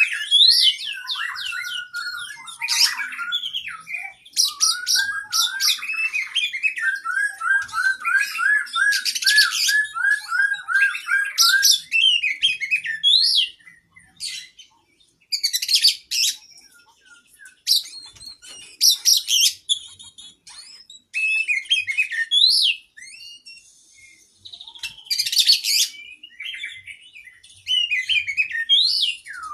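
Oriental magpie-robin (kacer) singing a long, varied song of mimicked phrases: sweet whistled glides mixed with harsh scratchy bursts. In the first half it has a run of about a dozen quick repeated notes, and after that the song comes in shorter phrases with brief pauses.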